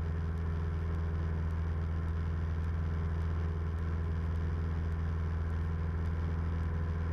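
Steady drone of a 1976 Cessna 172M's four-cylinder Lycoming engine and propeller in flight, heard from inside the cabin, with an even low hum that holds constant throughout.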